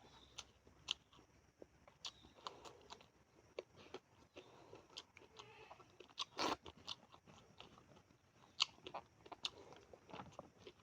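A person chewing and crunching on sardines (tamban) and corn rice close to the microphone: a run of irregular crunches, smacks and clicks, with one louder crunch about six seconds in.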